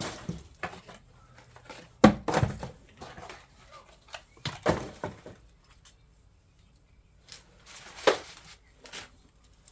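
A handful of separate knocks and clunks from objects being handled, with quiet between them.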